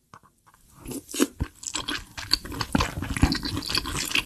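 A person chewing a mouthful of red stew with meat and vegetables, close-miked. It starts about a second in as a dense run of crunches and mouth clicks.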